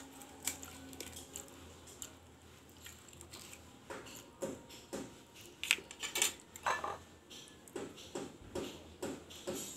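Mukbang eating sounds close to the microphone: irregular clicks and snaps of chewing and of cutlery against a plate, several a second, busiest in the middle of the stretch.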